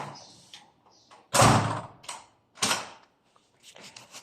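A door being opened: a loud noisy rush about a second and a half in, then a shorter one a second later.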